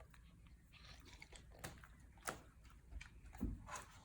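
Faint handling of a paper picture book, with a few soft rustles and clicks as a page is turned.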